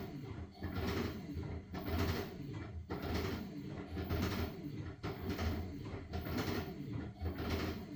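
LG washing machine in its wash cycle, the drum turning the wet blankets with a rhythmic swish of water about once a second over a low motor hum.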